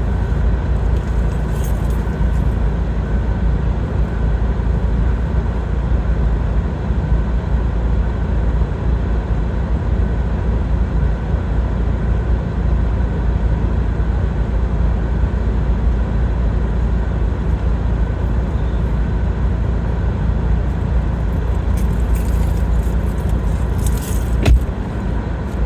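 Steady road and engine noise inside a car's cabin while driving: a low rumble with a faint steady whine over it. There is one sharp click near the end.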